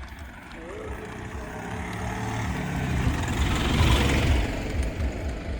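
A motor vehicle passing by on the road: its engine and tyre noise grow louder, peak about four seconds in, then fade.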